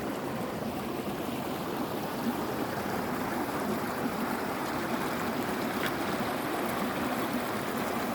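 Running water of a stream, a steady babbling rush.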